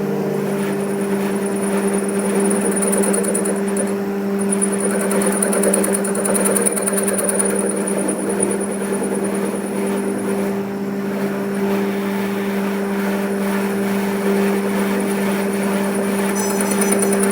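A workshop machine running steadily: a constant low hum with a high whine above it, which drops out briefly twice, over a busy mechanical clatter.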